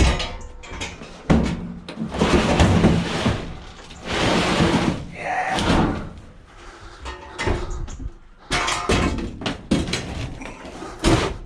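Scrap items being shoved and packed tightly together: a series of bangs and knocks with longer scraping stretches in between.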